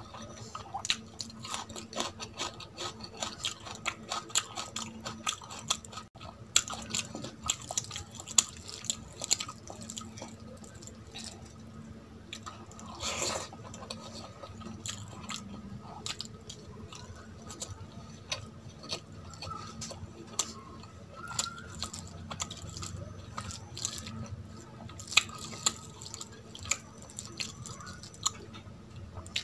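Close-up eating sounds of a person chewing rice and curry eaten by hand: wet chewing and lip smacks with many sharp clicks and occasional crunches, and one louder mouth sound about halfway through.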